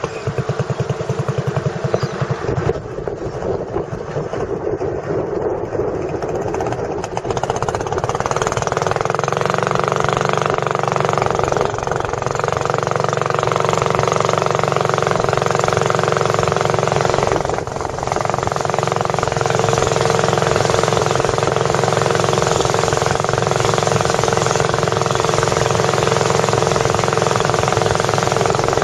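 Boat engine running with a rapid pulsing beat, becoming louder and steadier about eight seconds in.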